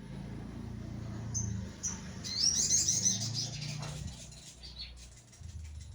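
Sogon bird song played as a lure for an untrained bird: a burst of high, rapid chirping and chattering about a second and a half in, loudest around the middle, with a shorter burst near the end. A steady low hum runs underneath.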